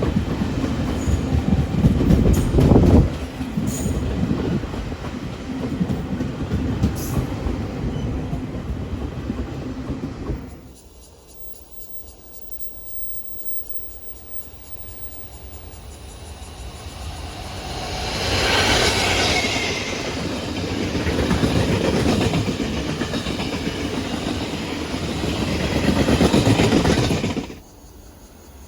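A train running on the rails, its wheels clicking over the rail joints. The noise stops abruptly about ten seconds in, then builds up again and stops suddenly near the end.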